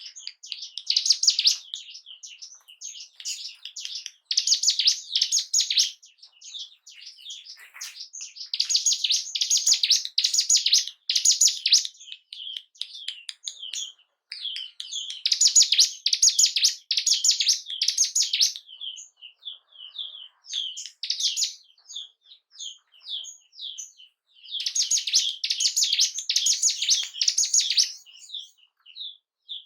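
Ciblek gunung, a prinia, singing: bursts of fast, high, chattering trills a few seconds long, broken by short pauses with loose single chips in between. It is played as a lure song to rouse a kept bird's urge to sing and fight.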